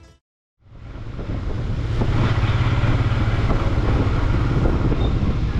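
Royal Enfield Himalayan's 411 cc single-cylinder engine running steadily on the move, with a low hum under a broad rushing noise; it fades in after a brief silent gap near the start.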